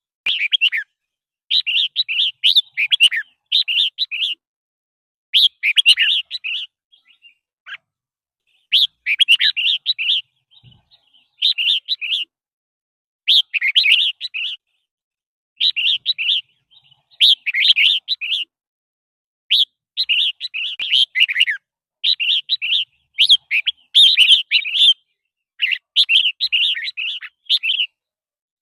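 Red-whiskered bulbul singing: short, bright warbled phrases, each about a second long, repeated about every two seconds with brief pauses between them.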